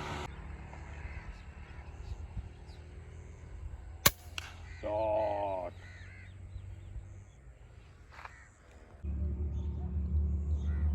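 A crow gives a single harsh caw of just under a second, shortly after a sharp click. A low rumble sets in near the end.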